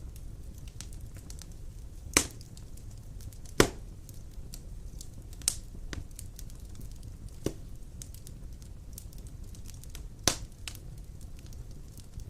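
Large wood logs burning in a stone fireplace: a steady low rumble of flame with light crackling throughout and a handful of sharp pops, the loudest about two and three and a half seconds in and again about ten seconds in.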